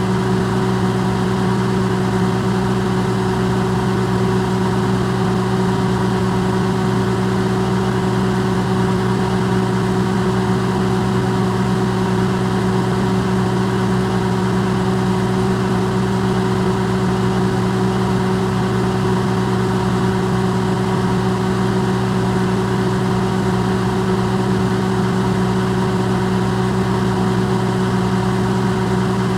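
Electrolux microwave oven running, recorded up close and amplified: a steady, unchanging hum with a low drone and a few held tones over a hiss.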